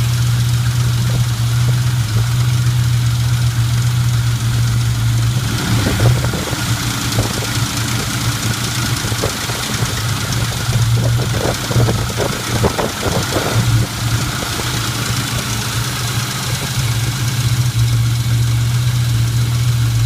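2001 Mustang GT's 4.6-litre V8 idling after a cold start with a loud tap over the steady engine note, most distinct in the middle stretch. The owner suspects the timing chain, the lash adjusters or piston slap.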